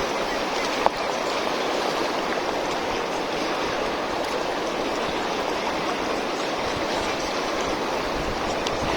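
Steady rushing of flowing water, with a single sharp click about a second in.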